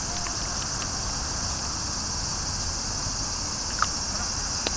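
Steady high-pitched chirring of an insect chorus, with a couple of faint short knocks near the end.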